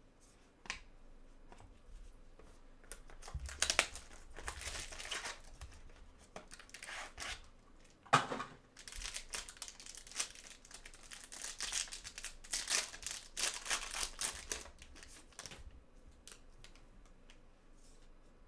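Trading card pack wrapper being torn open and crinkled by hand: several bouts of rustling, with a sharp rip about eight seconds in.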